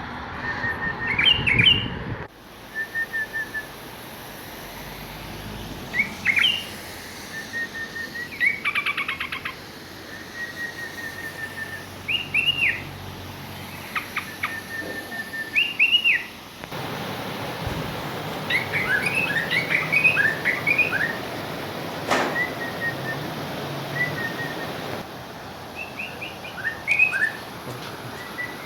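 Songbirds calling and singing: repeated short whistled notes, quick rising chirps and rapid trills from several birds. The background hiss changes abruptly a few times, and there is a single sharp click about two-thirds of the way through.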